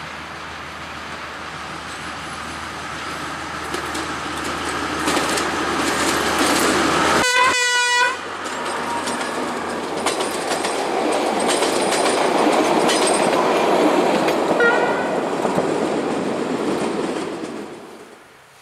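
Narrow-gauge diesel passenger train passing close. The rumble of the locomotive and of the wheels on the rails builds up, and the horn gives one short blast about seven seconds in. The coaches then roll past with wheel clatter, and the sound fades out near the end.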